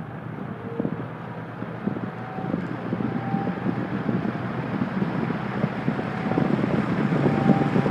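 1973 Kmart P-23 box fan starting up on low speed: a motor hum with a rush of air from the blades that grows steadily louder as the fan comes up to speed.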